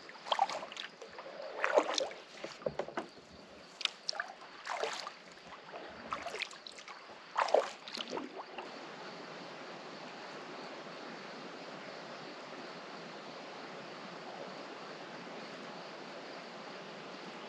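Kayak paddle strokes dipping and splashing in the water, roughly one a second, for the first half. After about eight seconds the strokes stop and only a steady, even hiss remains.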